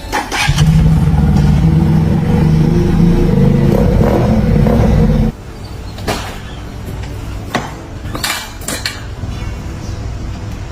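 Restored Kawasaki Z900 motorcycle engine running at a steady speed for about five seconds, then cutting off suddenly. A few clicks and knocks follow.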